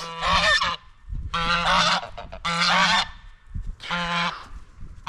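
Geese honking: four calls, each about half a second long, spaced roughly a second apart.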